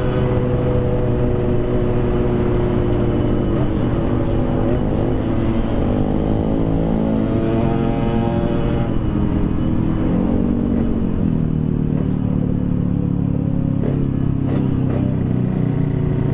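Yamaha RX-King's 135cc two-stroke single-cylinder engine breathing through an aftermarket PDK exhaust, running under way; the revs climb for several seconds, drop back near the middle, then hold steady.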